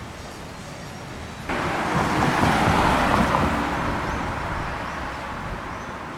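Street traffic: a motor vehicle passes close by, its tyre and engine noise rising abruptly about a second and a half in and then slowly fading away.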